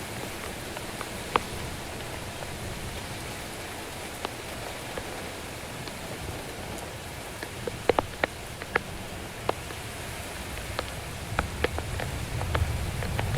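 Steady rain with scattered sharp ticks of single drops; a low rumble of thunder builds near the end.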